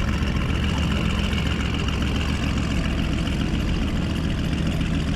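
A car engine idling steadily, a low even rumble with no change in pitch.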